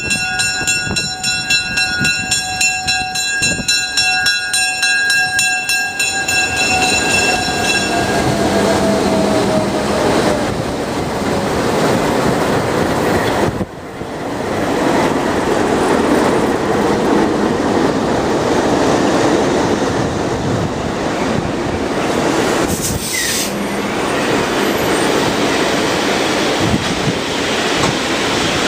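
A train horn sounds a held chord that drops in pitch as the train passes. Then comes the long, steady rumble and clatter of railroad cars rolling by.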